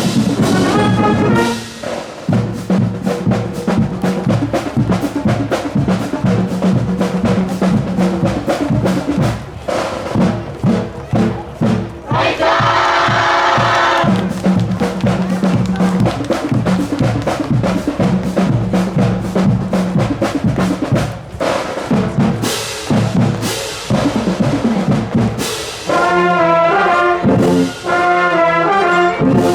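A marching band playing: mostly a percussion passage of rapid drum hits over a low held note, with a short loud brass chord about halfway through and the full brass section coming back in near the end.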